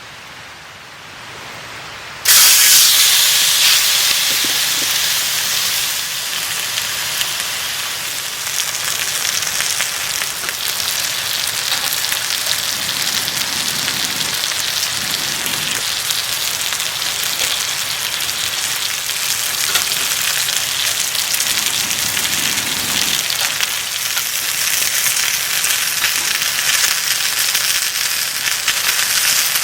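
Food sizzling in hot oil in a pan over a campfire, starting suddenly about two seconds in as it goes into the pan, loudest at first and then settling into a steady sizzle.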